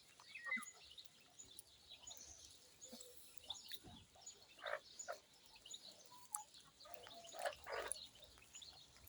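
Faint outdoor ambience with scattered short bird chirps and a few brief louder calls.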